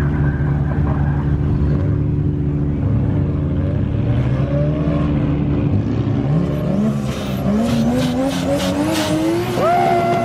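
Four-wheel-drive drift truck's engine running steadily, then revving higher with a rising pitch from about six seconds in, with tyre squeal in the last few seconds.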